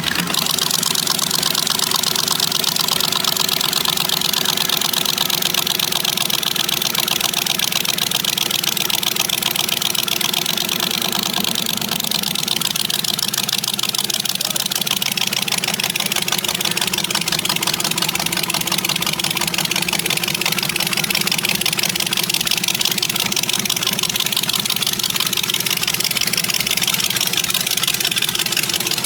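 A car engine idling steadily, with a fast, even run of exhaust pulses.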